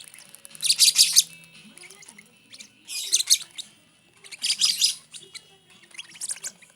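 Lovebird chicks giving harsh, raspy begging calls in four bursts about a second and a half apart, the hungry chicks' food-begging.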